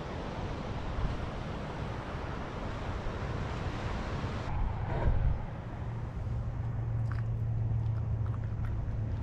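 Wind buffeting the microphone over the steady wash of ocean surf; about halfway through the hiss drops away abruptly and a steady low hum is left with a few faint ticks.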